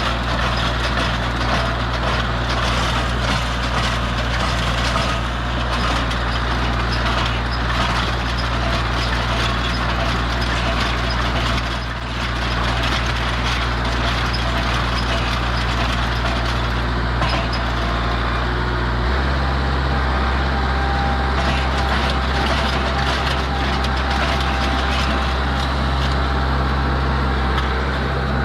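Engine running steadily under a wash of mechanical noise, its speed shifting about two-thirds of the way through.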